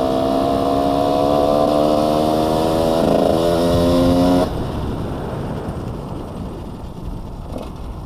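Husqvarna WR125 two-stroke single-cylinder dirt bike engine pulling in top gear, its pitch rising steadily with a brief dip about three seconds in. The engine note stops abruptly about four and a half seconds in, leaving a fainter, fading rumble.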